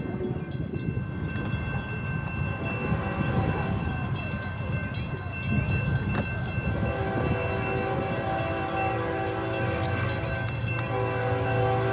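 Diesel freight locomotive approaching, its low engine rumble growing louder, with its horn sounding from a little past halfway, one long blast, a short break near the end, then sounding again.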